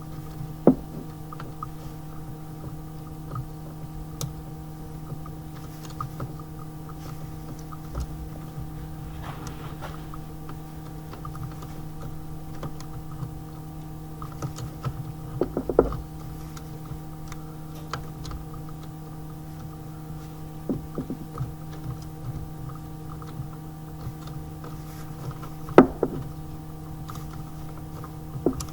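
A steady low electrical-sounding hum with a few sharp knocks and clicks: one about a second in, a small cluster about halfway through, and the loudest near the end.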